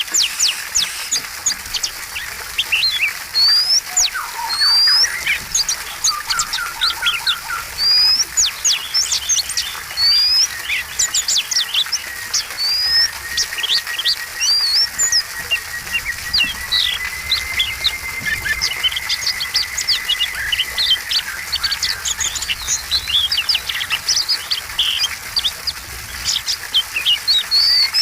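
Oriental magpie-robin (kacer) singing in a rapid, varied song of rising whistles and sharp chirps, with a brief fast trill and a long steady high tone held for several seconds in the middle.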